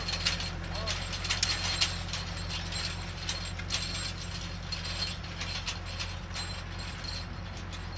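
Tractor engine running steadily under load, with constant irregular metallic clanking and rattling from the machine and its plowing gear.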